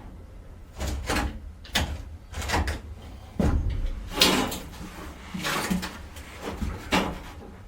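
Irregular knocks and scrapes, about eight of them spread unevenly over several seconds, like things being handled and shifted during work on the motor home.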